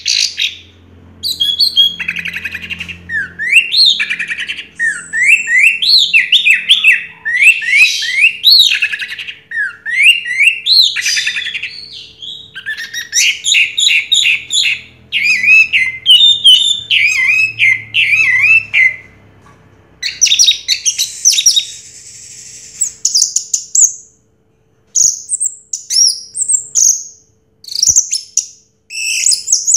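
Orange-headed thrush (anis merah) singing a long, rapid, varied song of quick sweeping and rising notes, broken by brief pauses near the end.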